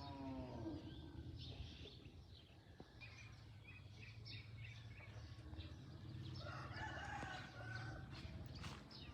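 A rooster crowing about six and a half seconds in, with small birds chirping now and then.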